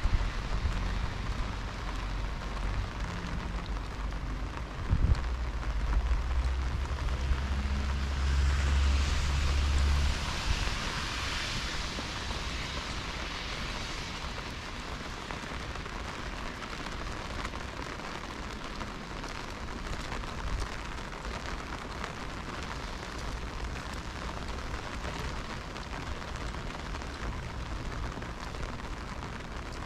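Steady heavy rain pattering and hissing on the street. A low rumble passes under it in the first ten seconds, and the hiss swells briefly around ten seconds in.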